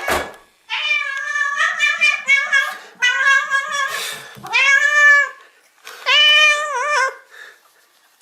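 Domestic cat meowing loudly and insistently, a string of short meows followed by two long drawn-out calls, the last one wavering up and down. There is a brief knock at the very start.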